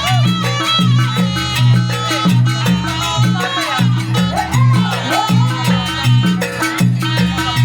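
Live Banyuwangi-style traditional dance music in a fast 'sampak' piece: rapid drumming with a loud, steadily stepping bass line and a sliding melody over the top.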